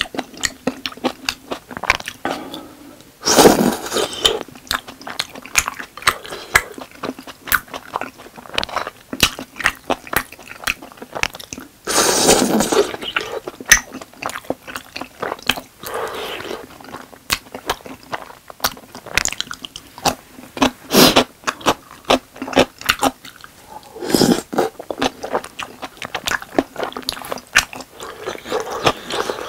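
Close-miked chewing and wet mouth sounds of someone eating tteokbokki, chewy rice cakes in a thick spicy sauce, with dense small clicks and a few louder bursts about a second long, near 3, 12 and 24 seconds in.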